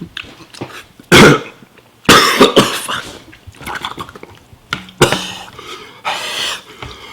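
A man coughing in several separate fits, choking on very spicy ramen.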